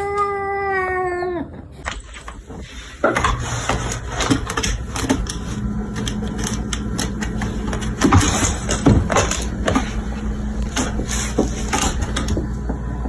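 A cat's long drawn-out meow, held and falling slightly in pitch, ends about a second and a half in. After a short lull, a stretch of rustling and clicking noise over a steady low hum follows.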